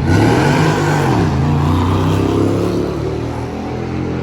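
Car engine running loudly, its pitch dipping about a second in and climbing back, then holding steady and easing off slightly near the end.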